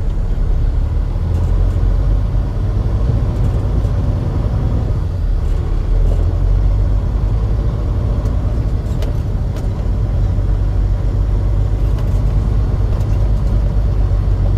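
Motor vehicle running with a steady, loud low rumble.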